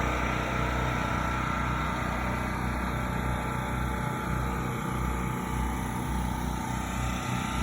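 Generator engine running steadily, a constant low hum with a fast, even pulse.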